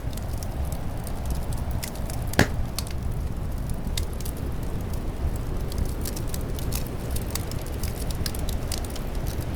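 Wood fire crackling and popping over a steady low wind rumble, with one sharp, louder pop about two and a half seconds in.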